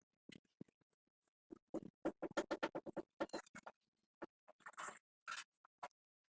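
Short scraping strokes and clicks, as from hand work on metal parts: a fast, even run of scrubbing strokes about two seconds in, then a rougher scrape and a few knocks.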